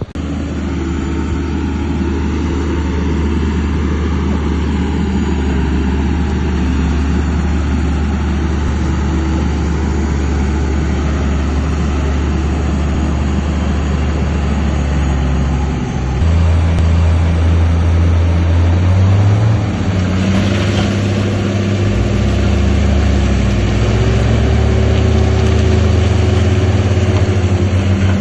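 Heavy diesel engine of earthmoving machinery running steadily. Its note steps up and grows louder about halfway through, then shifts again a few seconds later.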